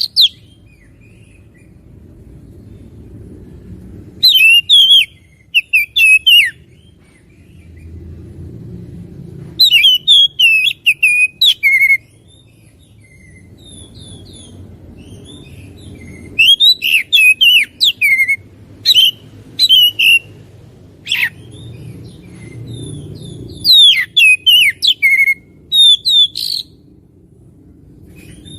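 Oriental magpie-robin (kacer) singing in loud bursts of rapid, varied whistled phrases, with pauses of a few seconds between the bursts. A faint low rumble runs underneath.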